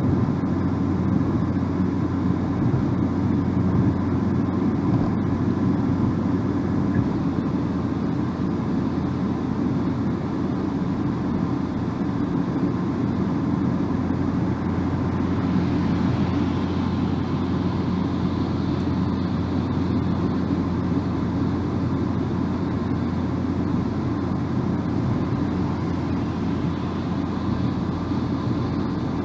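Steady road noise of a car driving at an even speed, heard inside the cabin: a low tyre and engine rumble with a constant hum.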